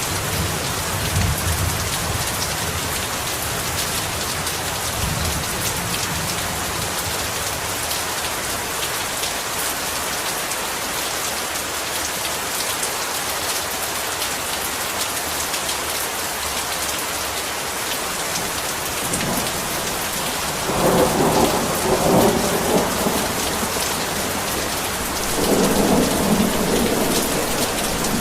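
Heavy rain falling steadily. Thunder rumbles twice in the second half, and a fading rumble is heard at the start.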